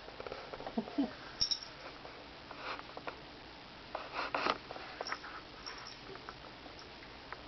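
Cats batting at and tearing a shredded long leaf: scattered rustles, scratchy scuffles and light taps, coming in short irregular spurts.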